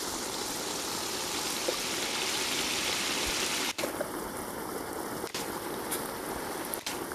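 Chicken pieces frying in a large pot, giving a steady sizzling hiss that is briefly broken twice in the second half.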